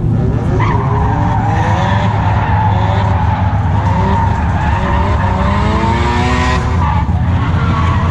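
A drift car sliding on track: its engine revs up and down again and again while the tyres skid and squeal. The tyre noise stops sharply about six and a half seconds in.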